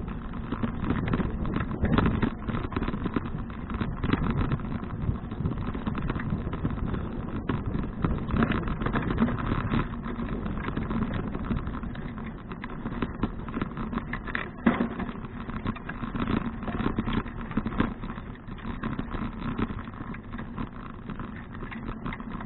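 Bicycle riding noise: wind rushing over the action camera's microphone, with tyres on the path and the bike rattling in many small knocks.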